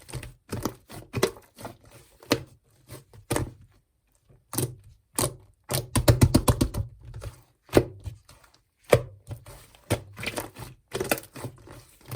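Clay slime being pressed and squished by hand, making a run of sharp clicks and pops. There is a short pause about four seconds in and a quick cluster of clicks around six seconds.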